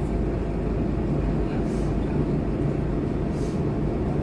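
Scania K230UB city bus's five-cylinder diesel engine running steadily as the bus drives, a constant low drone, with two brief high hisses about one and a half and three and a half seconds in.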